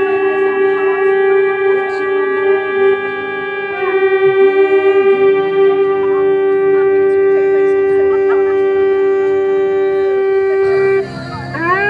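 Shofar blown in one long sustained blast that wavers briefly about four seconds in, then breaks off near the end as a new blast starts, rising in pitch.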